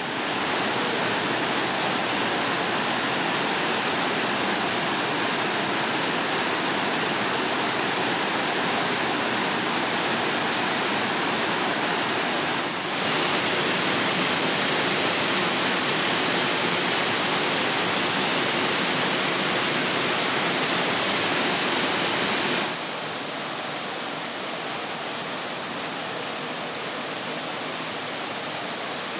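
Steady rush of water falling at Nabegataki waterfall. It gets louder about 13 seconds in and drops back down about 23 seconds in.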